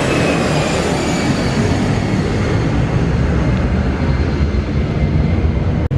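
Jet airliner's engines rumbling loudly as it passes, the engine whine falling in pitch early on.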